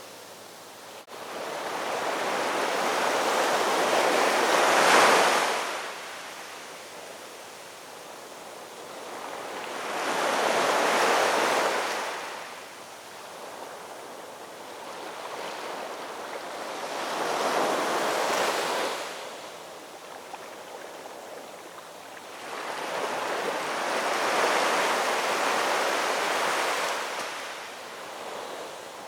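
Ocean surf: four waves break and wash out, one about every six to seven seconds, each a rising and falling rush. The first wave is the loudest.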